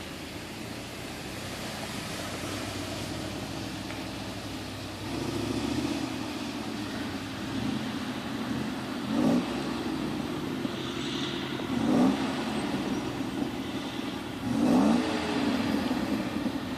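Nissan Terrano engine running under load, its note swelling in three short revs in the second half.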